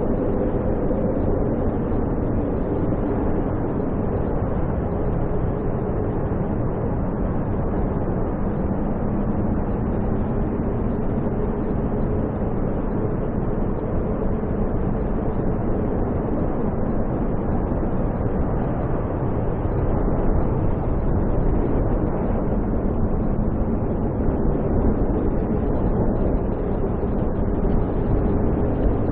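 Snowstorm wind roaring steadily, a deep, continuous rush with no breaks.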